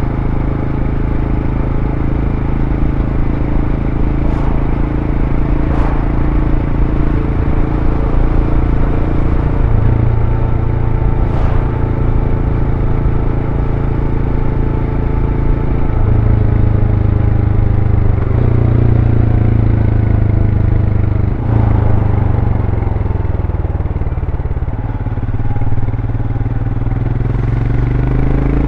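Royal Enfield Scram 411's single-cylinder engine running through its stock exhaust while riding, with the engine note changing sharply about ten, sixteen and twenty-two seconds in and falling slowly in the later part.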